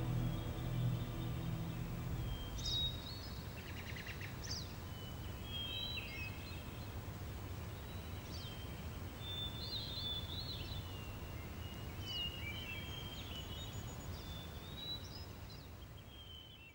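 Birds chirping and calling in short, scattered chirps over a steady outdoor background hiss. A low ambient music drone fades out in the first few seconds.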